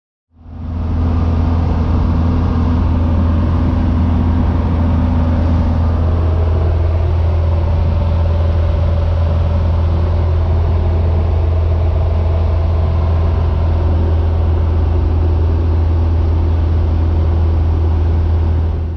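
1954 Cessna 170B's six-cylinder Continental O-300 engine and propeller droning steadily at cruise power in flight. The sound fades in just after the start and fades out at the end.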